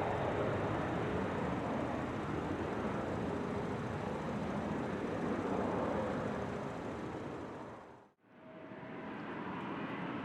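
Steady jet aircraft noise mixed with the hiss of rain, fading out about eight seconds in and coming back more quietly just after.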